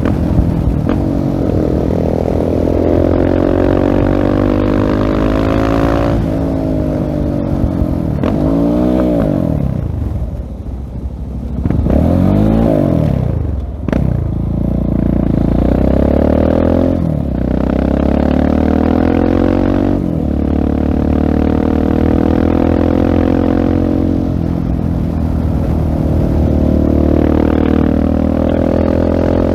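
Husqvarna 701 Supermoto's single-cylinder engine through a LeoVince full-system exhaust, revving up and rolling off again and again while riding. Its pitch climbs and drops through the gears, with a brief roll-off about ten seconds in and quick rev rises and falls soon after.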